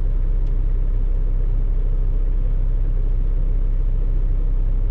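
Peterbilt 579 semi truck's diesel engine idling steadily while parked, a constant low rumble.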